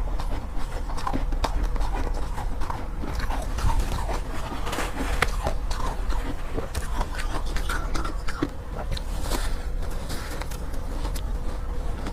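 Soft, powdery shaved ice being bitten and chewed close to the microphone, a dense run of small irregular crunches.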